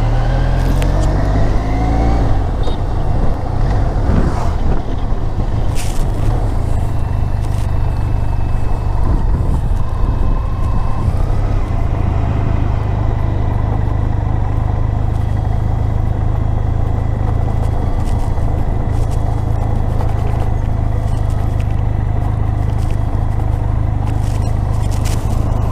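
Motorcycle engine running under way with heavy wind buffeting on the microphone. The engine pitch rises in steps in the first couple of seconds as the bike accelerates through a gear, then holds steady at cruising speed.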